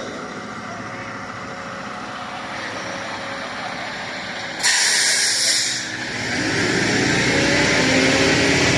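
A heavy truck's diesel engine running, with a sharp hiss of released air lasting a little over a second about halfway through. Then the engine revs up, rising in pitch, and holds at higher revs.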